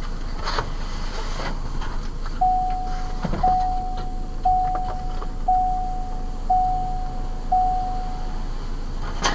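Car's electronic warning chime sounding six times, about once a second, with a steady low rumble underneath and a sharp knock near the end.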